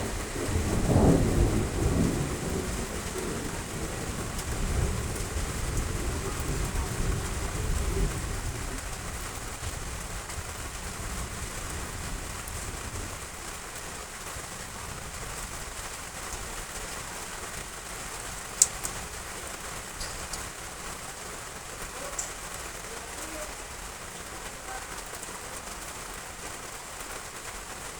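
Steady heavy rain, with a long roll of thunder rumbling over the first several seconds and dying away. A few sharp drip ticks stand out in the second half.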